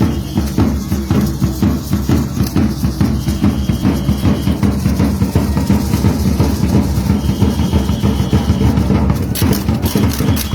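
Drums of a traditional danza group beating a fast, steady rhythm. A short high held tone comes in three times, and sharper, brighter strikes join near the end.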